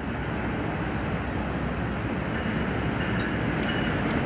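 Freight train passing: a steady noise of wheels on rail that slowly gets louder.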